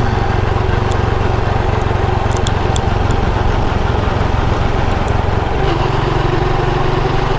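Motorcycle engine running steadily while riding, over a steady rush of road and wind noise; the engine note changes about five and a half seconds in.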